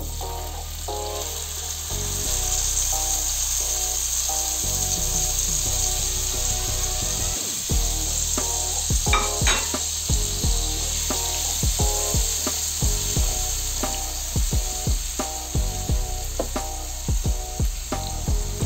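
Chopped tomatoes sizzling in hot oil and garlic in a ridged grill pan, a steady hiss. From about eight seconds in, a silicone spatula knocks and scrapes repeatedly against the pan as the tomatoes are stirred. Background music plays throughout.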